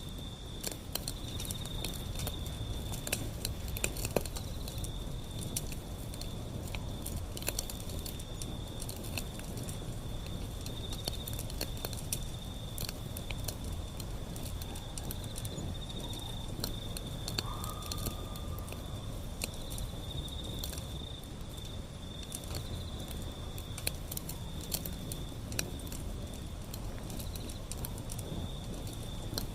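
Wood fire burning, with frequent sharp crackles and pops over a low, steady rumble. A thin, steady high-pitched whine runs underneath throughout.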